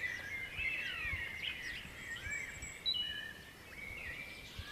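Several birds singing at once: overlapping chirps and short whistles, some sliding down in pitch.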